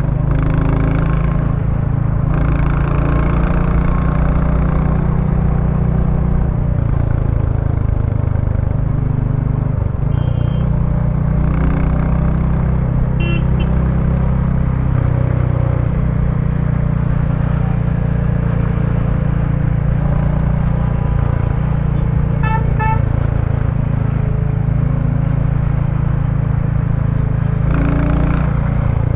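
Royal Enfield Bullet 350's single-cylinder engine and stock exhaust running steadily under way, its pitch stepping a few times as the speed changes. Short horn toots sound briefly about halfway through and again about three quarters of the way through.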